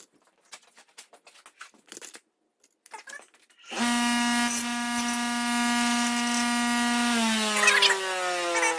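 A few light handling clicks, then an electric power tool's motor whines steadily at speed for about three seconds. Near the end its pitch falls steadily as it slows, with some scraping crackle.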